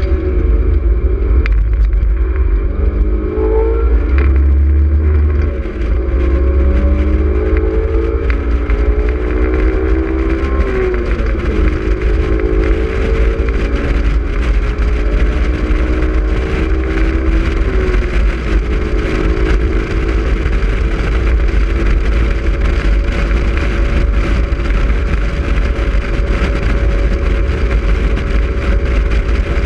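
Honda S2000's four-cylinder engine under hard acceleration on track, its pitch climbing in several rising pulls that drop back at each upshift, then holding steadier at speed. A heavy low rumble of wind buffets the microphone in the open-top roadster.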